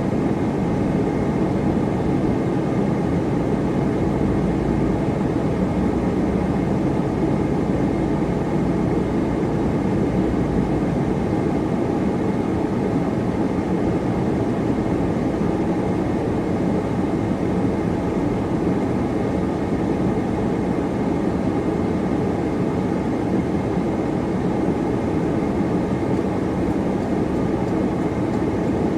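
Steady car cabin noise while driving: engine and tyre-on-road noise holding an even level throughout.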